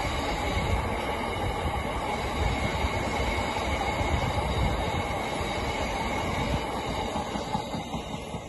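Freight train of VTG box wagons rolling past: a steady rumble of wheels on rail with a thin steady squeal above it, easing slightly as the last wagons go by near the end.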